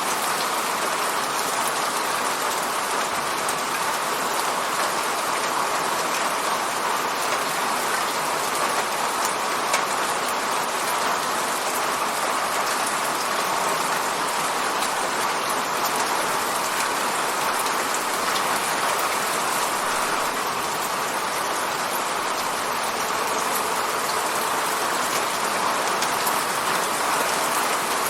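Steady rain falling on an apartment window, a constant hiss with scattered faint drop ticks.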